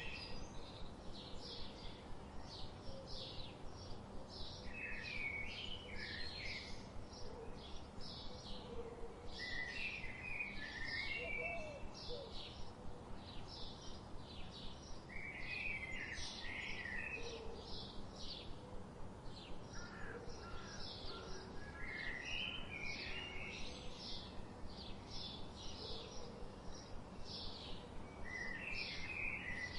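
Forest birdsong: a bird repeats a short warbling phrase every few seconds over a steady series of quick high chirps, about three a second, with a faint hiss of ambience underneath.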